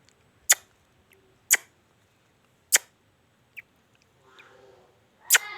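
Pet talking parrot making sharp kiss-smack sounds, four loud ones and a fainter one, about a second or so apart. The last one carries a short voiced 'mwah' with it.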